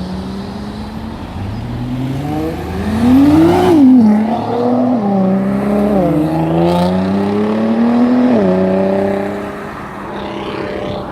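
Sports car engine accelerating hard as it drives off through the gears: the engine note climbs steeply to its loudest about four seconds in, then drops sharply and builds again at each of three upshifts spaced a couple of seconds apart.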